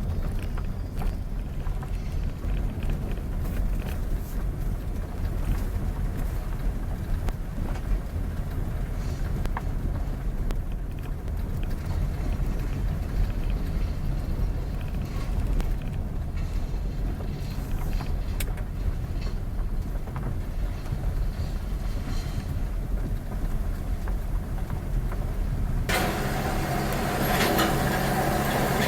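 Road vehicle driving, with a steady low rumble of engine and tyres. Near the end a louder rushing hiss cuts in suddenly.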